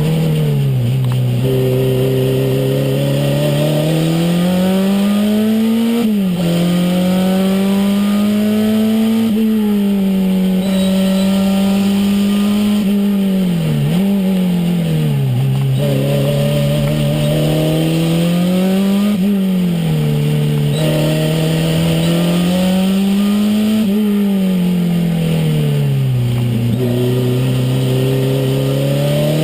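Renault 5 Turbo's turbocharged four-cylinder engine heard from inside the cabin under hard driving. The engine note climbs and falls over and over, with sudden drops in pitch at gear changes and when lifting for corners.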